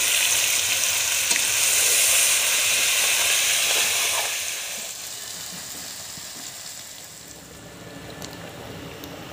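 Pieces of fish head and sliced onion sizzling loudly as they fry in oil in a wok, stirred with a spatula. About five seconds in, the sizzle drops to a quieter bubbling.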